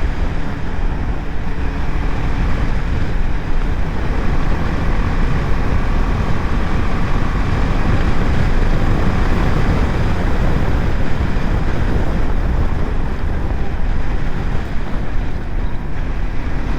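Steady wind rush over the rider's microphone with the BMW G 310 GS's single-cylinder engine running underneath while the motorcycle is ridden at road speed.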